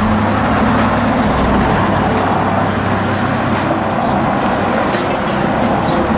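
Road traffic noise: vehicle engines and tyre noise on a busy street, with one vehicle's low engine note standing out for the first two seconds or so.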